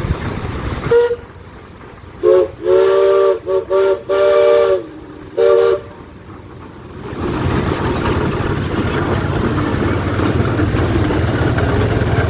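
A steam whistle blown in a string of short and long toots, about six in all, sounding a chord of close notes. Steady engine rumble runs before the toots and comes back after them.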